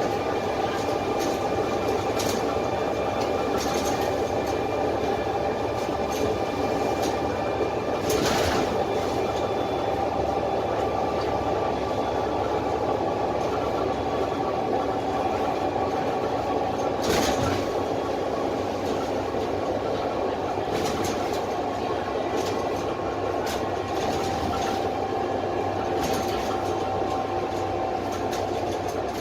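Dennis Trident double-decker bus under way, heard from inside the lower deck: its 10.8-litre Cummins ISMe diesel and Voith automatic gearbox drone steadily with a high, steady whine, plus body rattles and a couple of knocks about 8 and 17 seconds in.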